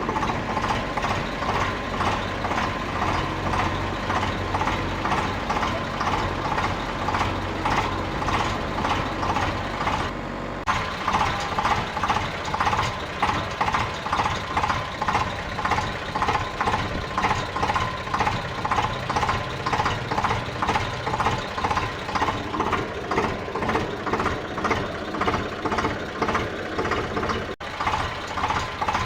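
Electronic engine-and-beep sound effect of a toy construction vehicle, pulsing evenly at about two pulses a second, with a short break about ten seconds in.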